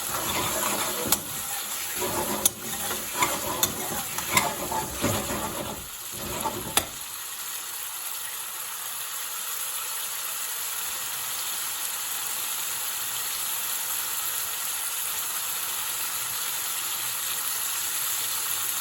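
Chicken curry sizzling in a hot pan while a spoon stirs it, scraping and clicking sharply against the pan for about the first seven seconds. After that the curry sizzles on its own with a steady hiss.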